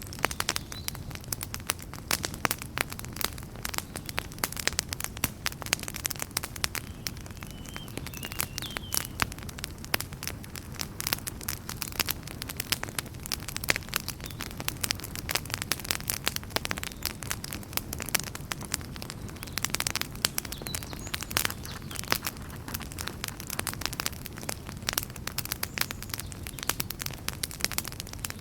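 Wood campfire crackling, with many sharp snaps and pops over the steady low rush of the flames.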